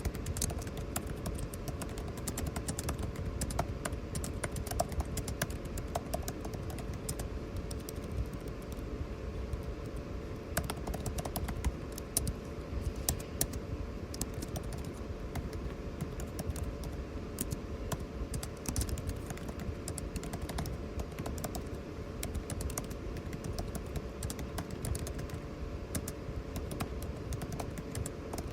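Typing on a computer keyboard, a quick irregular run of keystroke clicks, over a steady air-conditioning hum.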